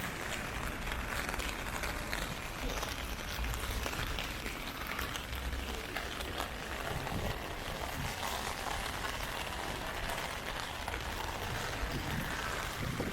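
Heavy typhoon rain falling steadily on the street, a dense hiss of countless drop ticks over a low rumble.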